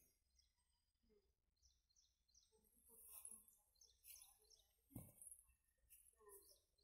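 Near silence, with faint birds chirping intermittently and one short soft knock about five seconds in.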